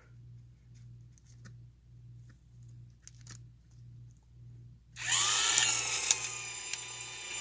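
Restored 1978 Cadillac power antenna's electric motor starting about five seconds in, a whine that dips in pitch briefly and settles to a steady run as it drives the mast up. Before it starts there is only a faint low hum.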